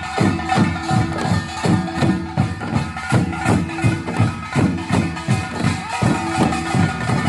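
Korean samul nori percussion, gongs and drums, playing a gilnori procession rhythm. Strikes come in a steady, driving beat of about two to three a second, with the metal gongs ringing on between them.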